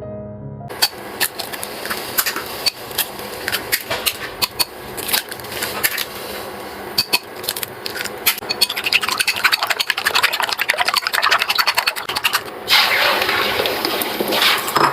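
Scattered clicks and knocks of hands handling things, quickening into rapid tapping. Then, about two seconds before the end, water starts running with a steady splashing.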